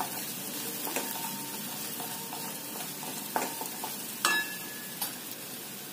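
Chopped onion, peanuts and green chillies sizzling in oil in a stainless steel kadhai, stirred with a wooden spatula that scrapes and knocks against the pan several times. One knock about four seconds in leaves the steel ringing briefly.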